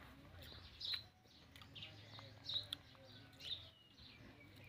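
Faint bird chirps: several short, high calls spaced a second or so apart.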